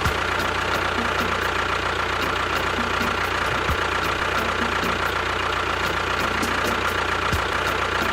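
Small motor of a DIY model construction vehicle running steadily at a constant speed, with a steady high whine over a dense mechanical rattle.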